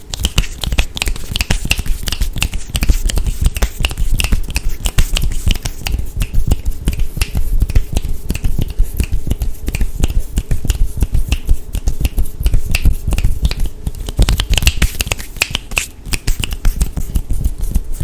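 Fast hand sounds close to the microphone: rapid finger snaps and taps, many a second, with low thumps underneath.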